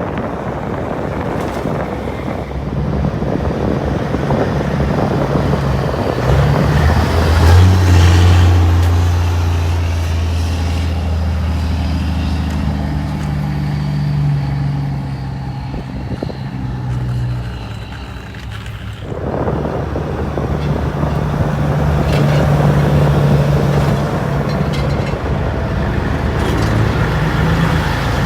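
Diesel semi trucks driving past one after another, their engines running steadily, the loudest pass about eight seconds in, with another truck coming up after a brief lull near two-thirds of the way.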